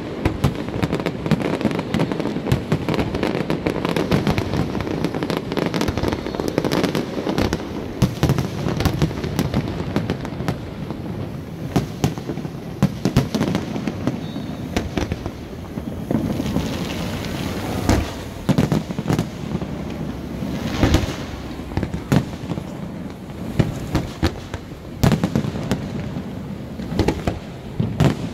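Aerial fireworks display: a dense barrage of shell bursts and crackling, easing in the second half into separate loud bangs several seconds apart.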